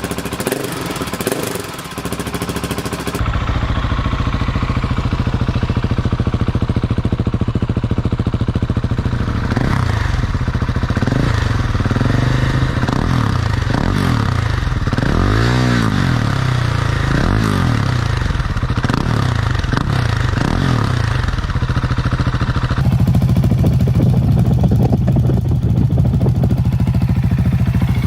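Husqvarna 701 Supermoto's single-cylinder engine running loudly through an aftermarket exhaust, heard in a few cut-together takes; in the middle stretch the sound swells and its pitch sweeps up and down.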